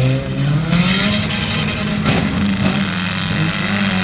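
Several demolition derby car engines running hard and revving, the pitch rising about a second in and then holding.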